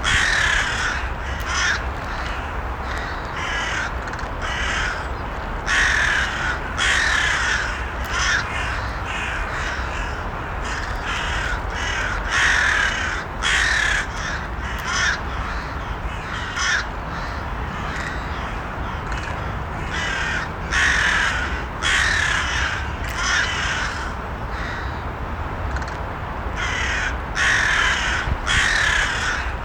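Crows cawing repeatedly, harsh calls coming in groups of two or three every few seconds, over a steady low background rumble.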